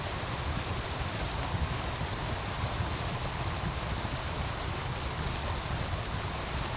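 Steady rush of a meltwater stream, with a few faint crackles from the wood fire, a pair of them about a second in.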